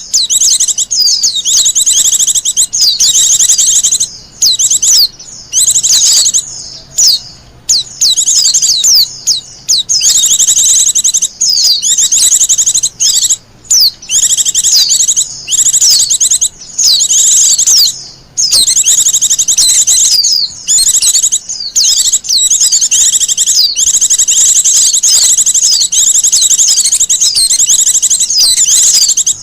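Wild white-eye (pleci) song: long runs of rapid, high-pitched twittering chirps, broken by short pauses.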